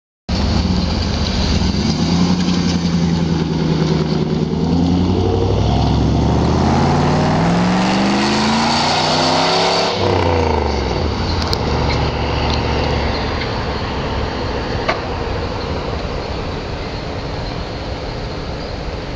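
Jeep Grand Cherokee 5.2-litre V8 with dual exhaust and a modified intake. It runs steadily, then revs up over about five seconds, drops back sharply about ten seconds in and settles to a steady idle.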